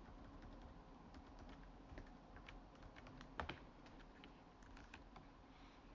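Faint, irregular clicking of computer keys, about a dozen scattered clicks with one louder click about three and a half seconds in, over a low steady room hum.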